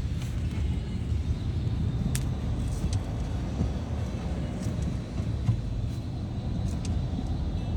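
Steady low rumble of road traffic and vehicle noise on a city street, with a few sharp ticks.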